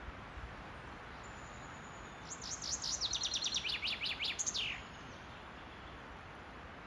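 Common chaffinch singing one song of about two and a half seconds: a fast run of repeated notes falling in pitch, ending in a quick flourish.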